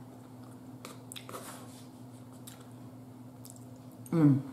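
A person chewing soft food, with faint wet mouth clicks, over a steady low hum. Near the end comes a short hummed "mm" that falls in pitch.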